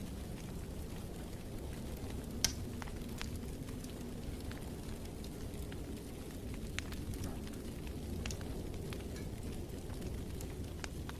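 Wood fire crackling in a fireplace: a steady low rumble with scattered pops and snaps, the sharpest pop about two and a half seconds in.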